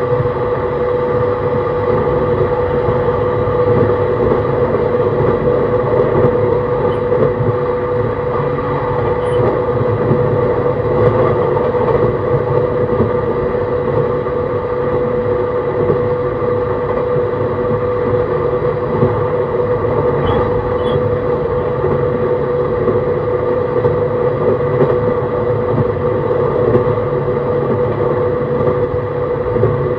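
E131-600 series electric train running at a steady speed, heard from on board. Its Hitachi hybrid-SiC inverter and traction motors give a constant hum with several steady tones over the rumble of wheels on rail.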